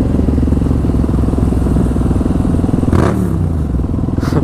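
Motorcycle engine running steadily with a deep, throaty exhaust note.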